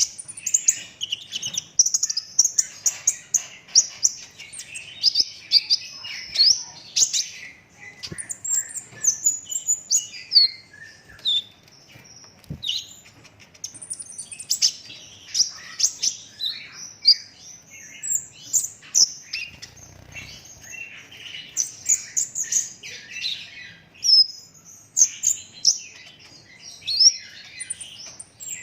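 Kolibri ninja sunbird singing continuously: fast runs of high-pitched chirps and trills, one after another with only brief pauses.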